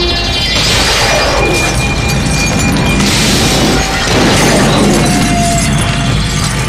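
Action-scene soundtrack: dramatic music with two loud crashes, about half a second in and about three seconds in.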